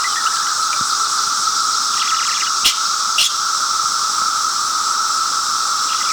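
A chorus of cicadas droning steadily, with two short sharp sounds about half a second apart near the middle.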